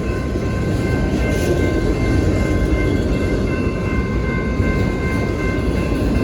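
Freight train rolling past with a steady low rumble of wheels and cars, and several faint steady high-pitched tones ringing over it.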